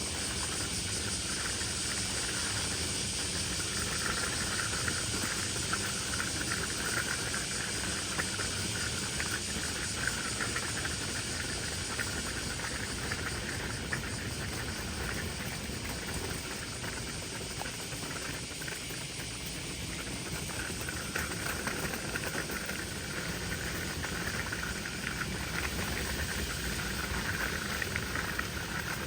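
Steady outdoor summer ambience: a continuous hiss with a shrill insect chorus that swells and fades several times.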